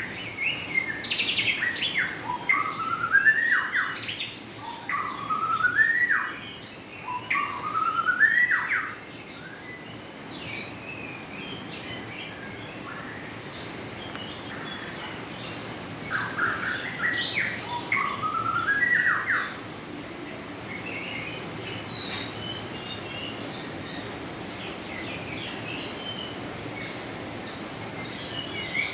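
Birds singing: one bird repeats a rising whistled phrase several times in the first nine seconds and again between about sixteen and nineteen seconds in, over softer, higher chirps from other birds.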